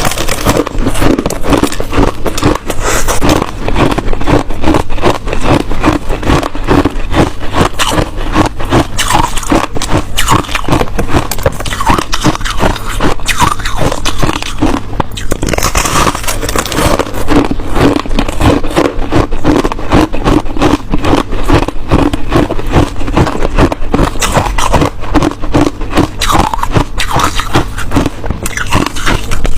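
Hard ice being bitten and chewed close to the microphone: loud, continuous crunching and cracking, many crunches a second.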